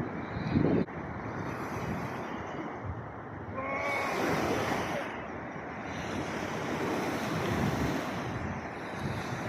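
Sea waves washing and surging against the shore, with wind buffeting the microphone. A loud gust cuts off sharply just under a second in, and a brief high call sounds about four seconds in.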